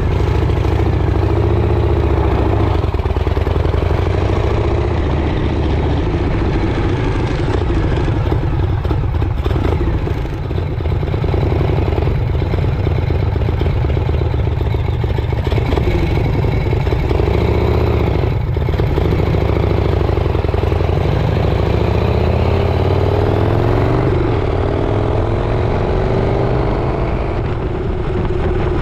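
Motorcycle engine running while riding under way, with road and wind noise; its pitch rises and falls several times as the throttle changes.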